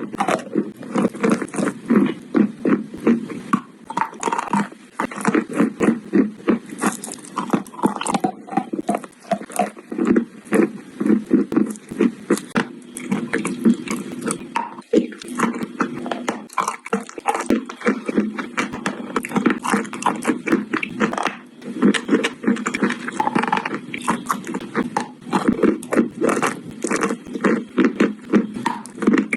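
Chalk coated in clay being bitten and chewed close to the microphone: a steady run of rapid crunches, several a second.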